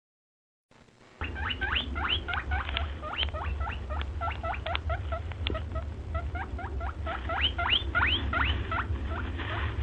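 A small animal squeaking rapidly: short, quick rising squeaks, several a second, starting about a second in, over a steady low rumble.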